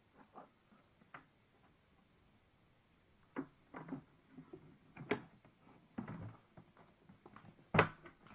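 Irregular knocks and clunks of something being handled, a few faint ones at first, then louder ones, with the loudest single knock near the end. No motor is running.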